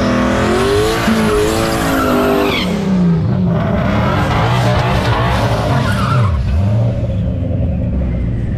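Ford Mustang V8 engines at a drag strip. For the first few seconds an engine is held high in the revs with a wavering pitch during a burnout, and tyres squeal. After that a lower engine rumble runs with a quick rev drop and pick-up about two-thirds of the way in, then settles to a steadier, quieter idle near the end.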